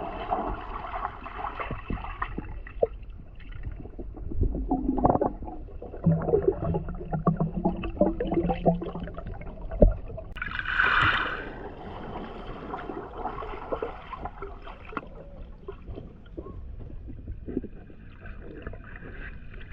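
Water sloshing and splashing close to the camera, with scattered irregular knocks and splashes and a brief louder pitched sound about eleven seconds in.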